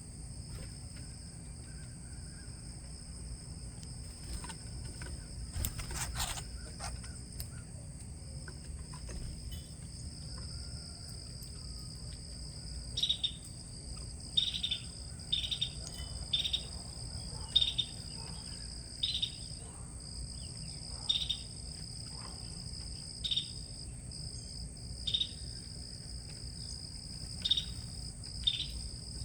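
Steady high-pitched insect chorus, crickets trilling without pause. From about halfway, a bird gives a series of short, sharp calls, roughly one a second.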